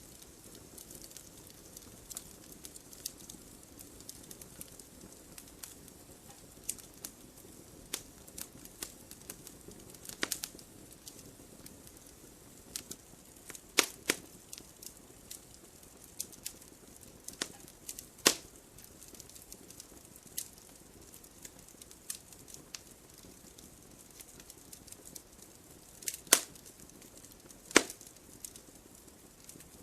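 Wood fire crackling: irregular snaps and pops over a faint steady hiss, with a few louder sharp pops now and then.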